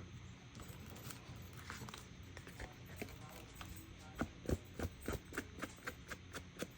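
Faint handling noise from about four seconds in, turning into a quick, irregular run of light taps and clicks, about two or three a second, as hands work with craft materials.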